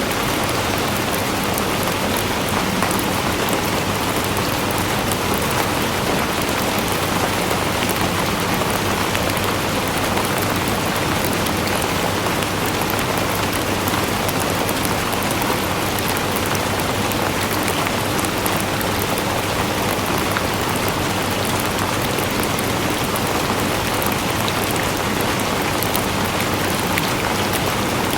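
Steady rain falling on a surface, a dense even hiss with many fine drop ticks throughout.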